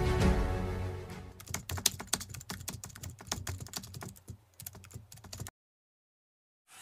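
Background music fading out, then a run of quick, irregular light clicks for about four seconds that cut off abruptly into silence.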